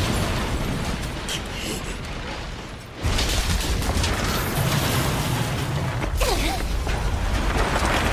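Sound effects of a huge destructive blast: a loud rushing noise that slowly eases, then a sudden louder blast about three seconds in that goes on as a deep, continuous rumble.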